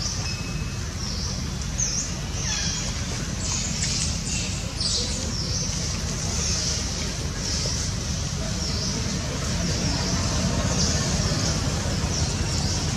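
Birds chirping, repeated short high calls about once a second, over a steady low rumble.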